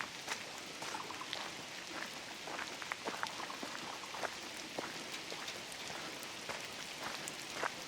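Steady rain falling in a redwood forest, with many separate heavy drops landing close by at irregular moments, several a second.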